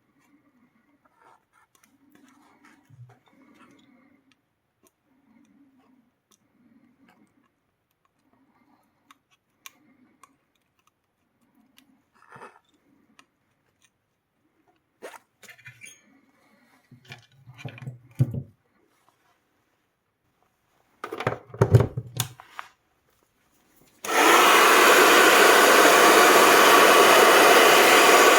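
Small clicks and knocks of tools being handled on a bench, then about 24 seconds in a hot-air tool switches on and blows with a steady, loud hiss, heating a glued-in circuit-board choke to desolder it.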